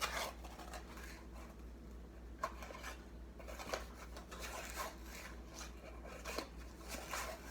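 A tablespoon scooping and scraping baking soda out of its container: scattered short scratchy scrapes and light taps, with a low steady hum underneath.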